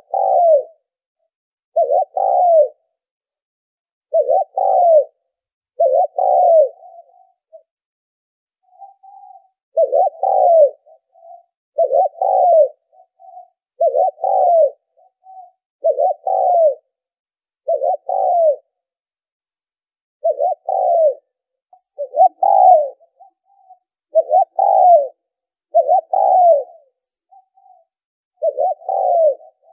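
Spotted dove cooing: short low coo phrases repeated about every two seconds, each a double-noted coo.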